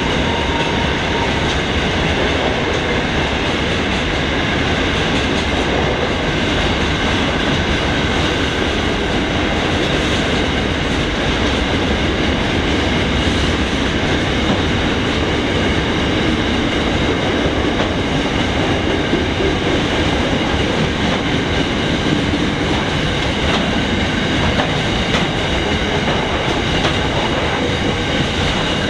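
Empty grain train's hopper wagons rolling past steadily, their wheels clattering on the rails, with a faint steady high ringing over the rumble.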